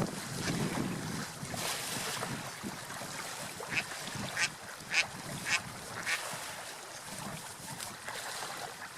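Ducks quacking: a quick run of about five short calls midway, over steady water and wind noise.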